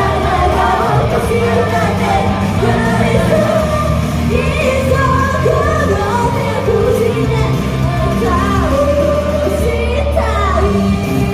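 Live idol pop song: voices singing the melody over a loud backing track with a heavy, steady bass, picked up by a phone's microphone.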